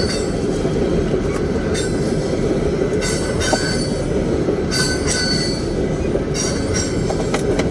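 Freight train of empty crude oil tank cars rolling past with a steady rumble of wheels on rail. High-pitched wheel squeals come and go several times.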